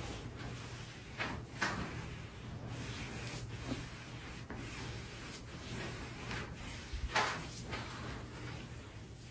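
Hands rubbing and sliding over the body in a manual-therapy massage: a run of soft swishes, the strongest about a second and a half in and again about seven seconds in, over a low steady hum.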